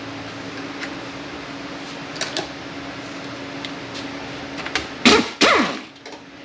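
Light metallic clicks and taps from transmission internals being handled over a steady background hum, then two loud ringing metal clanks close together near the end.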